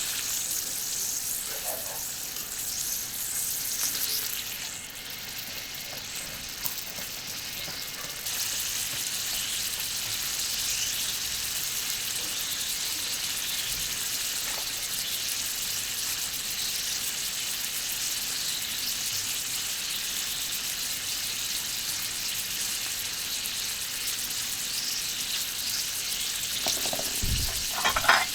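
Skirt steak sizzling on a thick iron griddle plate over a charcoal grill, a steady high-pitched hiss. The sizzle drops for a few seconds about five seconds in, then comes back to full strength. A few short knocks come near the end.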